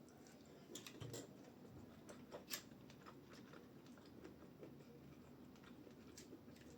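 Near silence: faint room tone with a few scattered soft clicks, the sharpest about two and a half seconds in.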